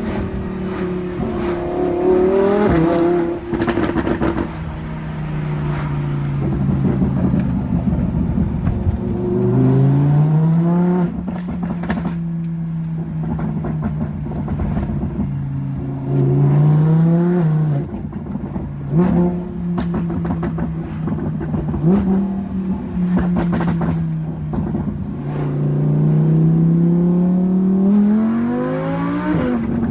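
Lamborghini Huracán V10 through a straight-piped exhaust, loud, pulling hard several times: its pitch climbs, then drops at each gear change. Sharp pops and crackles come between the pulls.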